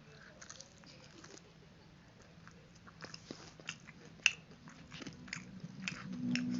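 Close-up biting and chewing of fried chicken, with scattered short crunches and wet mouth clicks, the sharpest about four seconds in. A low hum rises near the end.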